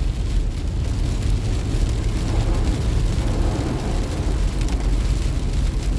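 Car driving on a rain-soaked road, heard from inside the cabin: a steady low rumble with tyre and road hiss.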